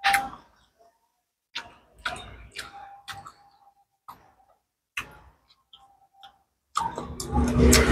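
Close mouth sounds of someone chewing salted fish eaten by hand: scattered sharp crunches and smacking clicks. Near the end they become louder and denser.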